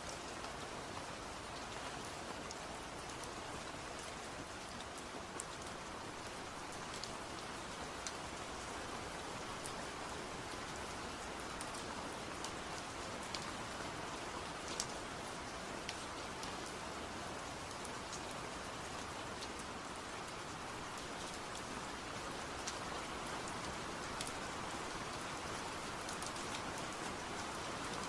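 Steady rain falling, an even hiss with scattered individual drops tapping on a surface.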